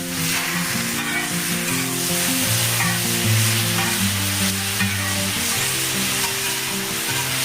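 Cabbage frying with spices and vinegar in a hot pan: steady sizzling, with background music playing low, stepping notes.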